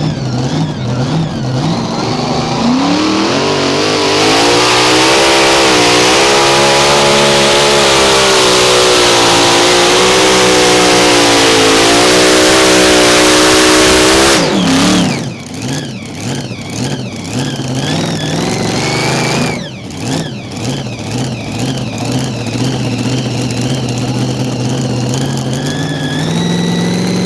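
Mini rod pulling tractor's engine revving up and running flat out under load for about ten seconds, pitch wavering as it works. It drops off abruptly about fourteen seconds in, then runs lower and unevenly with throttle blips, rising again near the end.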